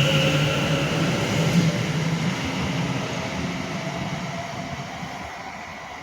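Two coupled Class 730 electric multiple units pulling out of the station. The electric traction whine rises a little in pitch as the train accelerates, and it fades steadily as the train draws away.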